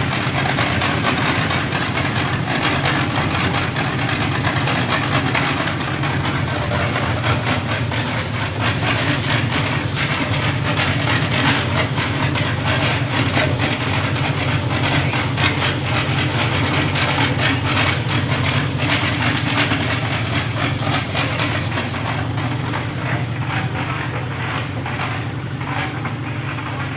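An engine running steadily, with a continuous rapid clattering rattle over its hum.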